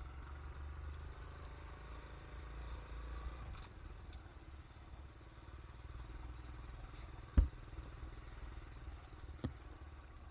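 Low, steady rumble of a moving vehicle, with one sharp knock about seven seconds in and a smaller knock near the end.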